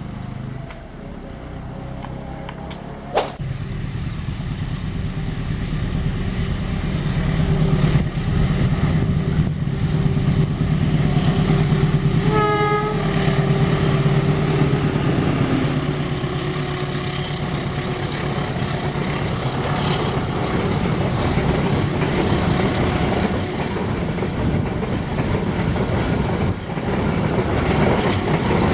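Diesel-hauled train passing, with a steady low rumble of engine and wheels that builds over the first several seconds and then holds. A sharp click comes about three seconds in, and a short horn blast about twelve seconds in.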